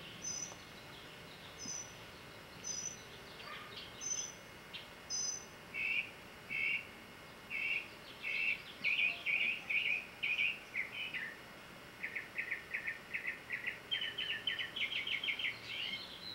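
A songbird singing: short high chirps about once a second, then a series of lower notes that speed up into a fast trill in the last few seconds.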